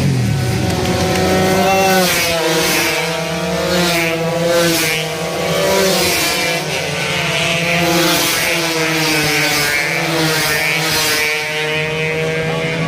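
Several two-stroke racing motorcycles at high revs, their engine notes climbing and dropping back again and again through gear changes, a few bikes overlapping at once.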